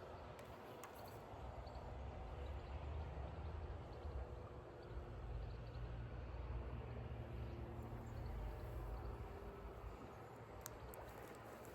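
Faint outdoor background noise with a low, unsteady rumble, stronger in the middle, and a few light clicks near the end.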